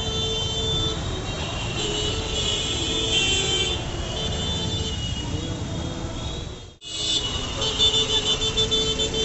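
Steady busy road-traffic noise with vehicle horns tooting. The sound cuts out abruptly about two-thirds of the way through, then comes back with a quick series of horn beeps near the end.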